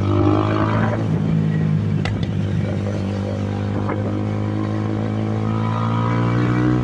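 Benelli TNT 25's single-cylinder engine running under way through its exhaust, with its pitch shifting as the revs change. There are a couple of sharp exhaust pops about two seconds in and another near four seconds, and the revs climb again near the end.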